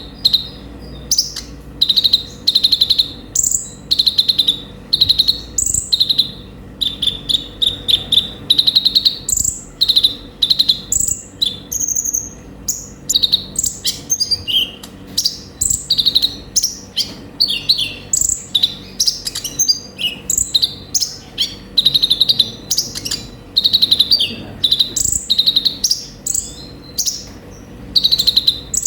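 Konin (kolibri ninja) sunbird singing continuously: rapid runs of short, high chirps and trills repeated phrase after phrase with brief gaps.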